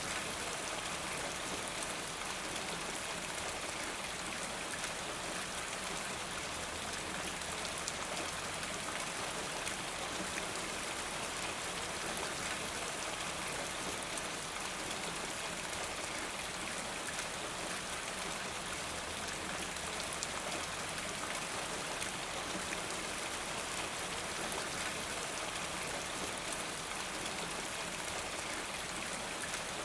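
Steady rain falling, an even patter of many drops that keeps up without a break.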